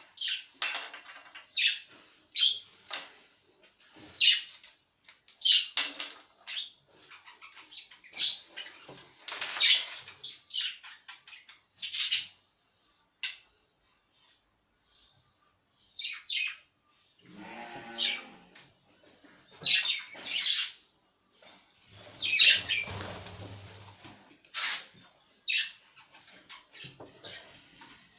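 Pet budgerigars chirping and chattering in short, irregular calls, with a few louder rustling sounds in the second half.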